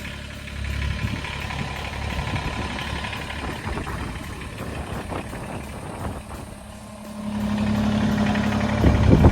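Kubota BX23S compact tractor's three-cylinder diesel engine running steadily at idle. It grows louder about seven seconds in, with a steady low hum, and peaks just before the end.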